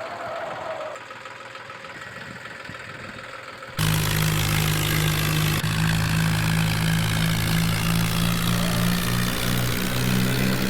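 Tractor diesel engine running, quiet at first; about four seconds in the sound cuts abruptly to a much louder, steady engine drone.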